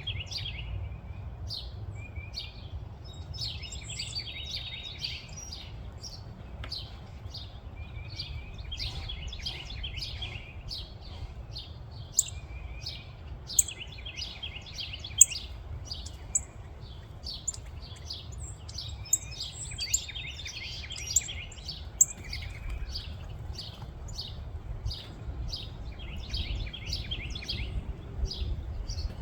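Small songbirds chirping and chattering busily, with quick high notes and short twittering runs and several sharper, louder chirps in the middle stretch. A steady low rumble runs underneath.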